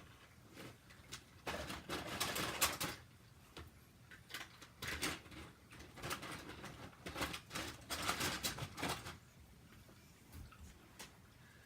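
Toy train track pieces clattering and clicking as they are handled, in several bursts of rattling with short pauses between.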